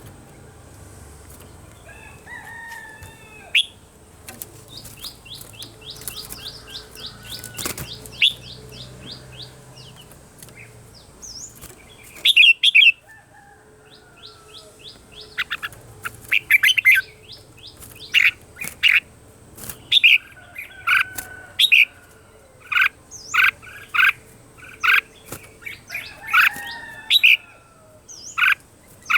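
Red-whiskered bulbuls singing. Several seconds in there is a fast run of rapid ticking notes. In the second half, loud, short, whistled phrases repeat about every half second.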